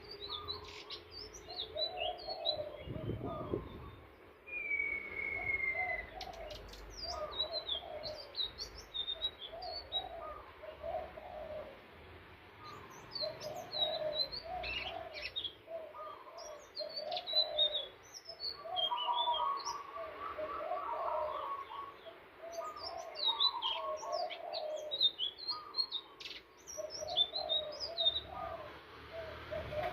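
Indigo flycatcher (sikatan ninon) singing: rapid high chirps and twittering trills, with a long falling whistle about five seconds in. Lower warbled phrases repeat steadily underneath.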